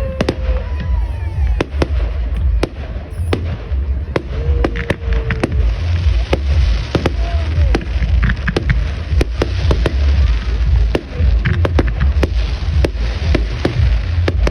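Fireworks going off: a dense, irregular run of sharp bangs and crackles, several a second, over a steady low rumble.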